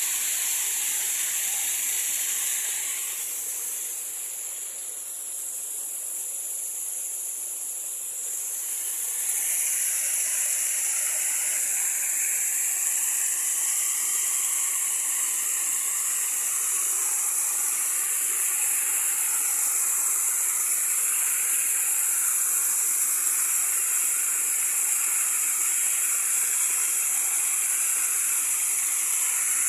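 Running water, a steady rushing hiss that softens for a few seconds early on and then comes back a little fuller.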